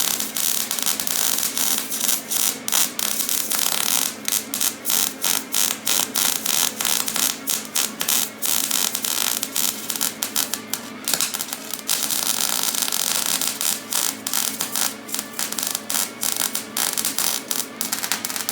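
Electric arc welding on the thin sheet metal of a hay baler: a loud, steady crackling hiss that stops and starts in many short pauses. The metal is thin enough that the weld burns right through it.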